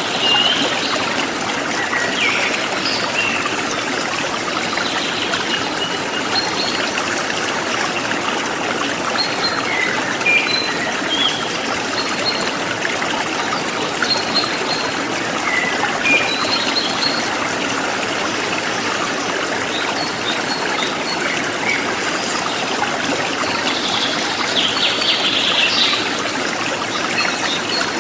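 Forest stream running steadily, with small birds chirping now and then above the water, and a short flurry of rapid chirps near the end.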